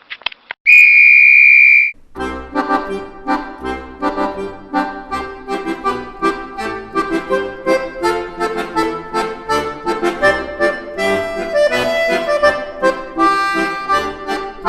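A few clicks, then a short loud whistle on one steady high note for about a second, followed by accordion music with a steady oom-pah bass beat.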